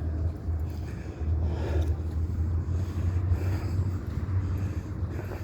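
Helicopter rotor drone, a steady low pulsing hum, with wind buffeting the microphone.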